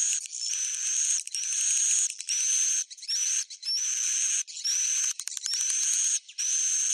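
Swiftlet roosting call ('suara inap'), the recording played to lure edible-nest swiftlets: a run of buzzy, chattering chirps, each carrying a thin whistle that rises and then holds, repeating about once a second.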